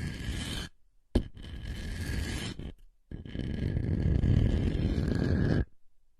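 Scraping sounds made close to the microphone, in three strokes separated by short pauses, the last and longest lasting about two and a half seconds. A sharp click opens the second stroke, just over a second in.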